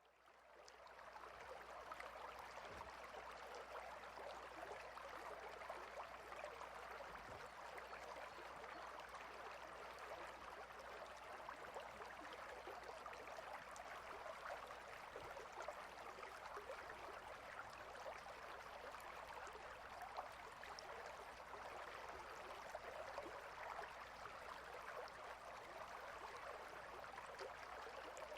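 Clear, shallow river running over and between rocks, a steady rushing and babbling that fades in over the first second or so.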